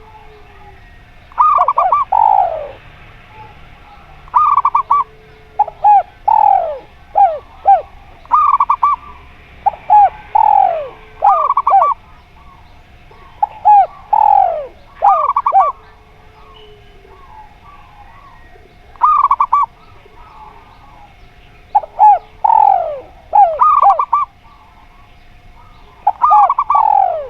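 Zebra doves and spotted doves cooing: about a dozen short, loud phrases of quick rising-and-falling coo notes, some with a falling slur, repeated in groups with pauses between. A faint steady hum runs underneath.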